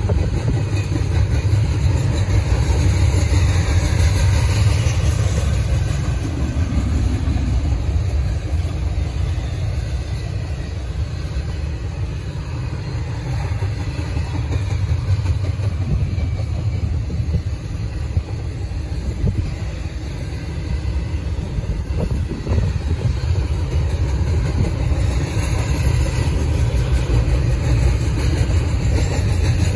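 Double-stack intermodal container well cars rolling past on the rails: a steady low rumble of steel wheels on track, swelling a little near the start and again near the end.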